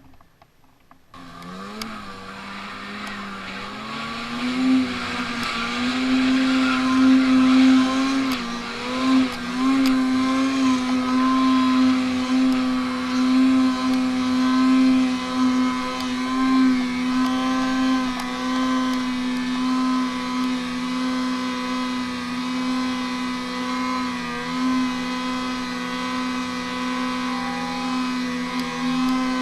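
Two-stroke twin snowmobile engine running hard, starting about a second in and then held at a nearly steady high rev with small dips, as the belt-driven clutch keeps it near peak revs under load.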